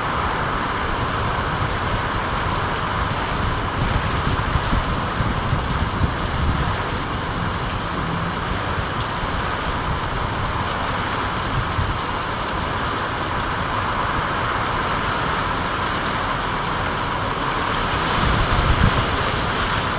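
Steady rain falling: an even hiss with a low, unsteady rumble underneath that swells slightly near the end.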